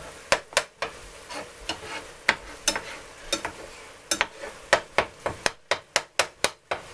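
A utensil striking and stirring ground turkey in a frying pan, breaking the meat up fine as it browns, with sizzling under repeated sharp knocks. The knocks ease off briefly about a second in, then come fast, about three a second.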